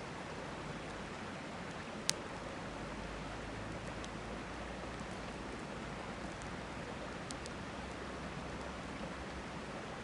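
Steady rush of a river with a campfire crackling over it: one sharp pop about two seconds in, then a few faint snaps.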